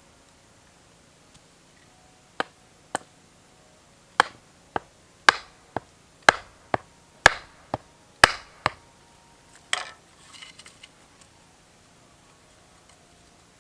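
An axe chopping wood: about a dozen sharp strikes, many coming in pairs about half a second apart, a loud blow then a lighter one, followed by a brief light clatter.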